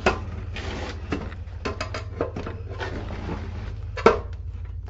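Scattered knocks, clicks and rustling from things being handled and moved, over a steady low hum. The sharpest knock comes about four seconds in.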